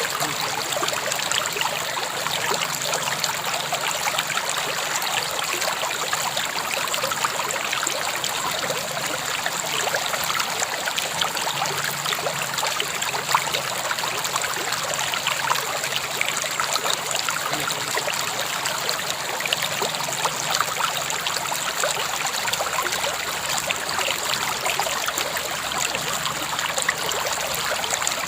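River water flowing steadily over stones, an even rushing with fine splashing and trickling.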